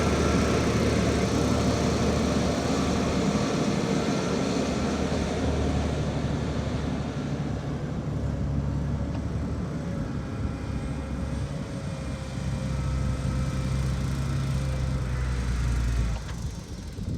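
Heavy diesel earthmoving machinery running, a steady low engine drone. It drops away briefly near the end.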